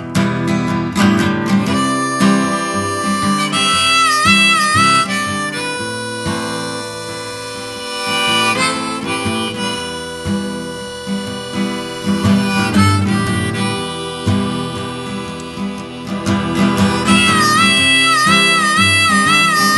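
Live music with no singing: strummed acoustic guitar with a harmonica playing held, wavering notes, which come in about four seconds in and again near the end.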